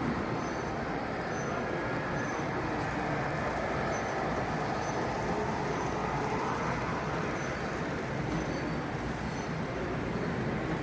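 Model trains running on an exhibition layout, a steady rolling noise with a faint high tone repeating under a second apart, over the general noise of a large hall.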